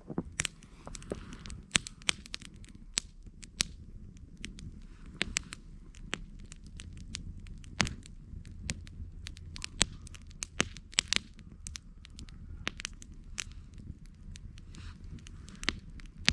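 Wood campfire crackling, with irregular sharp pops and snaps, several of them loud, over a low steady rumble.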